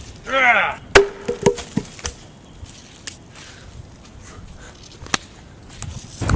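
A short pitched vocal call, then a loud sharp crack about a second in, followed by four or five lighter knocks and a few scattered faint clicks.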